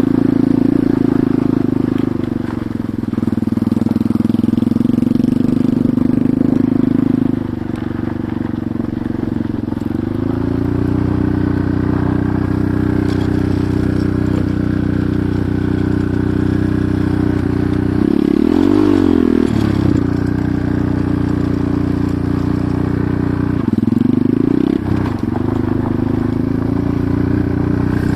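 Enduro motorcycle engine running continuously while riding, its note dipping and climbing back up twice, about two-thirds of the way through and again near the end.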